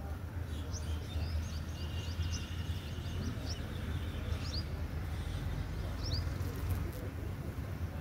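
Small birds chirping in quick, short high notes, a busy cluster in the first half and a couple more about six seconds in, over a steady low rumble.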